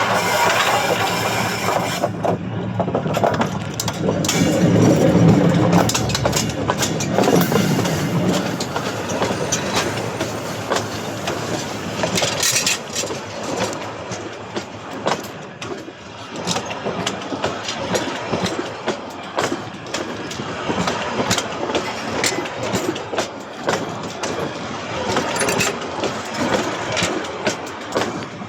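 Train wheels clattering over points as the train changes tracks: a run of sharp clicks and knocks over a steady rolling rumble, heaviest a few seconds in.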